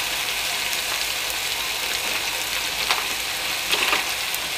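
Blended chilli-shallot spice paste with onion and tomato frying in a steel wok: a steady sizzling hiss with scattered fine crackles, a few slightly louder crackles near the end.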